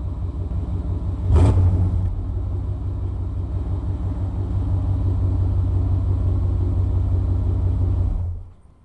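Exhaust of a 1995 Chevy C2500's 5.7-litre 350 small-block V8 with throttle-body injection, running steadily with a deep low rumble. It briefly gets louder about a second and a half in, and the sound stops suddenly near the end.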